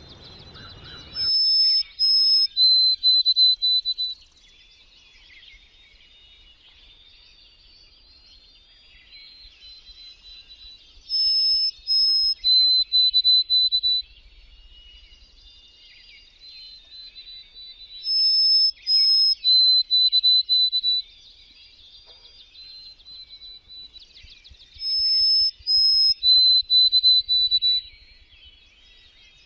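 Small songbird singing: a loud phrase of clear, high whistled notes, one pitch stepping down to a lower one, repeated four times about every seven seconds, with quieter twittering in between.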